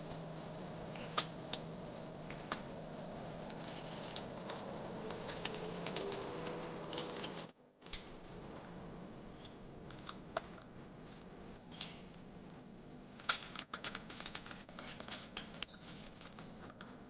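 Scattered small clicks and light scraping of hand work on small parts and tools, with an abrupt gap about seven and a half seconds in.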